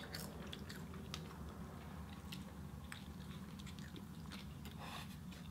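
People biting into and chewing McDonald's Quarter Pounder burgers, with soft, scattered mouth clicks. A low steady hum runs underneath.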